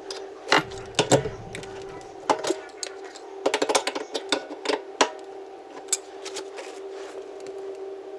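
A steady hum, with irregular light clicks and clattering knocks of small hard objects being handled, thickest around the middle.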